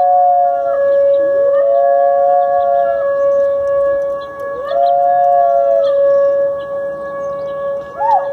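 A dog howling in long drawn-out howls, three in a row, each rising, held on one pitch and trailing off, over a steady held musical tone that never breaks.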